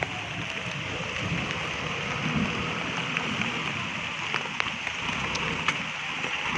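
Heavy rain falling: a steady hiss with scattered sharp drop ticks.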